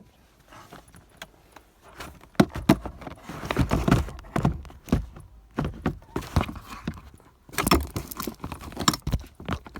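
Hands working plastic car-interior parts: a run of sharp clicks, knocks and rustling that comes in two busy stretches.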